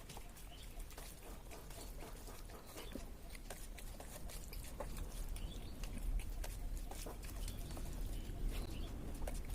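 A person eating rice and curry, with irregular wet mouth clicks, smacking and chewing over a low steady hum.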